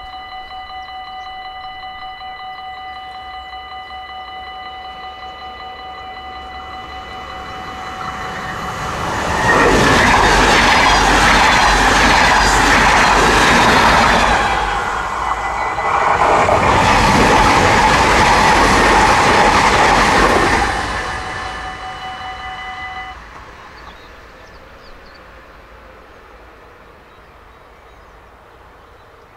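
Dutch level-crossing warning bells ringing steadily while a passenger train passes at speed, its wheel and rail noise swelling from about eight seconds in and loudest in two surges with a short dip between. The noise fades away, and the bells stop a couple of seconds later.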